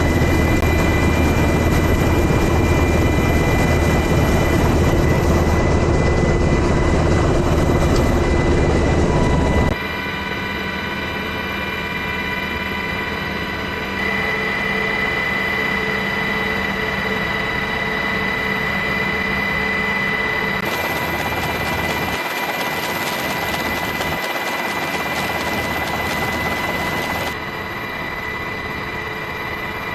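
Steady aircraft engine noise with a high whine, changing abruptly several times as one recording cuts to the next.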